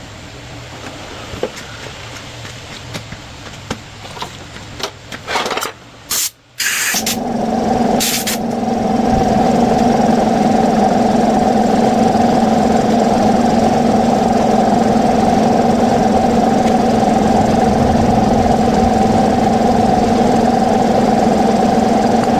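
Repaired no-start motorcycle engine being started: scattered clicks and a few short loud sputters, then it catches about seven seconds in and runs steadily at idle.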